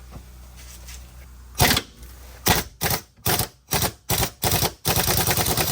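Impact wrench fired in a string of short rattling bursts, then run continuously near the end, working the bolts during the axle removal.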